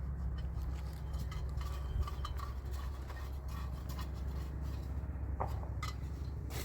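Scattered light clinks and taps of small hard objects over a steady low rumble.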